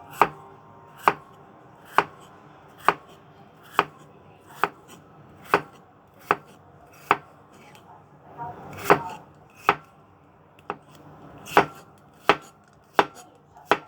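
Kitchen knife slicing a cucumber thinly on a cutting board: about sixteen sharp knocks of the blade on the board, roughly one a second, with a brief pause partway through.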